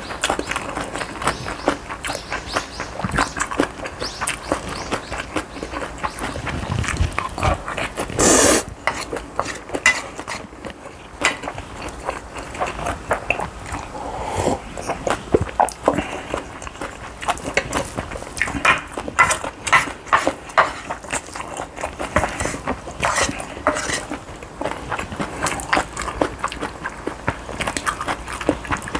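Close-miked eating of bibimbap and cup ramen: steady chewing with many short wet clicks and smacks, and one louder noisy burst about eight seconds in.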